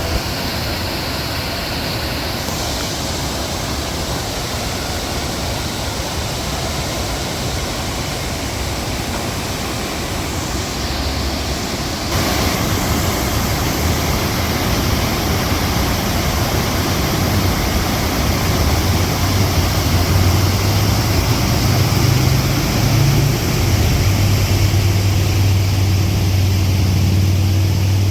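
River rapids: a steady rush of white water that gets louder about twelve seconds in, with a low rumble underneath in the later part.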